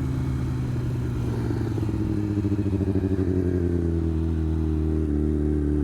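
Motorcycle engine running steadily, its note holding even with a slight pulsing in the middle.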